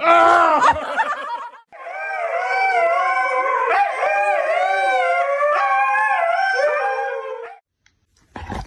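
Dog howling: a short, loud howl, then one long, wavering howl lasting about six seconds. A brief low thump follows near the end.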